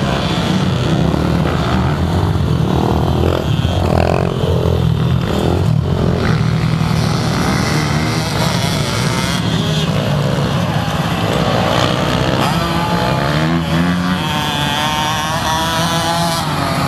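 Motocross dirt bike engines running, with bikes revving up and down, their pitch rising and falling several times in the second half.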